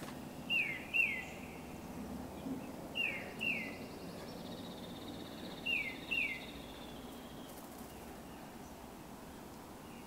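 A bird calling in three pairs of short, clear whistled notes, each note sliding down in pitch, a couple of seconds apart. A faint, steady high tone hangs in the background through the middle.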